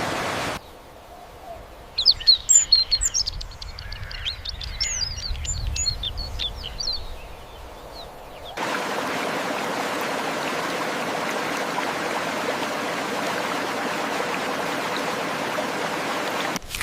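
A flurry of quick, high bird chirps, many short calls close together, for about five seconds. Then a steady, even hiss takes over for the second half.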